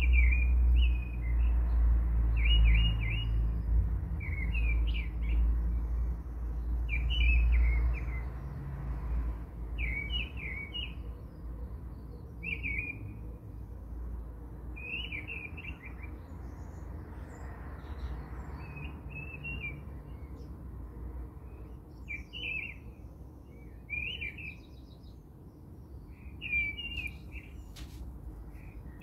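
A bird chirping in short twittering phrases, one roughly every two seconds, over a low rumble that fades after about nine seconds. A couple of light clicks come near the end.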